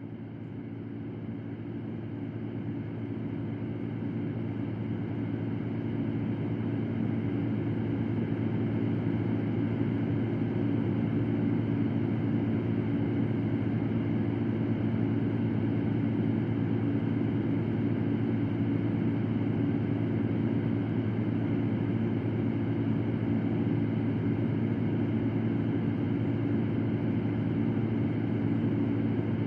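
Electric fan running steadily, a low motor hum under a even rush of air. It swells in level over the first several seconds, then holds constant.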